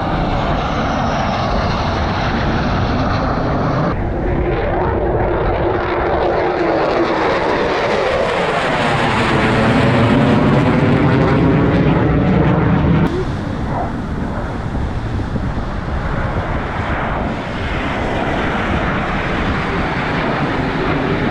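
Air show airplanes flying past, a continuous engine sound that swells to its loudest around ten to thirteen seconds in, then drops sharply.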